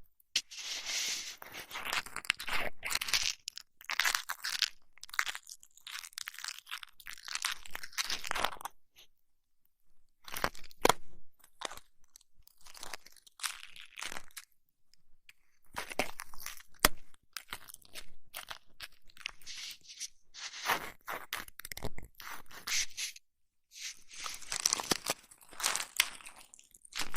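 Close-miked rubbing and scratching on a microphone in irregular bursts of a second or two, with sharp clicks and short pauses between them: ASMR ear massage and ear cleaning.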